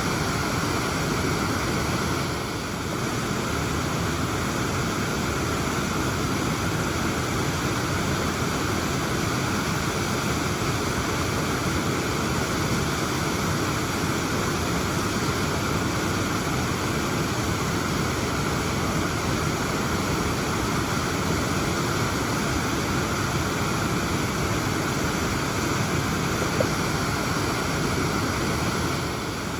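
Waterfall: a steady rush of falling water, an even roar with no pauses.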